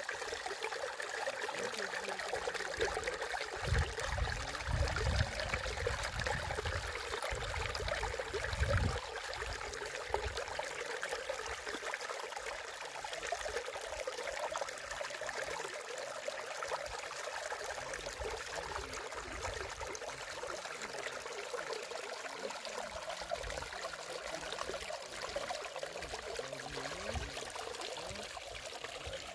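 Spring water running and trickling steadily, with a few low rumbles between about four and nine seconds in.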